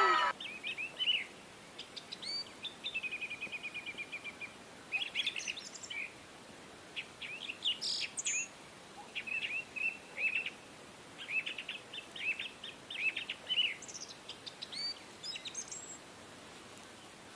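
Birds chirping and singing: short high chirps, some rapid trills, in irregular bursts over a faint steady hiss.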